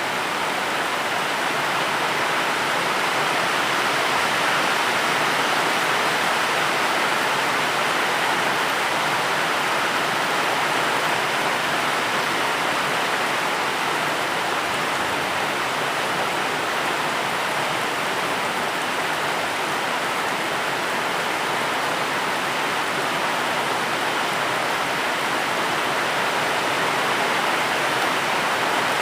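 Steady rain, a dense, even hiss with no separate drops or pauses.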